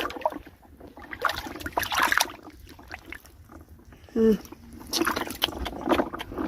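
Water sloshing and splashing in irregular bursts as hands work through shallow ditch water, with a short falling vocal sound about four seconds in.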